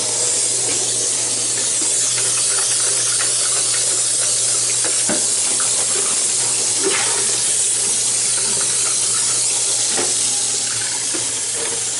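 Water running steadily with a continuous rushing hiss, over a low steady hum, with a few faint clicks.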